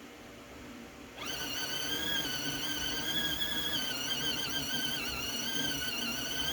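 Small electric motor of a mini portable folding washing machine starting up about a second in, rising quickly in pitch. It then runs on as a steady high-pitched whine that wavers slightly as the tub spins.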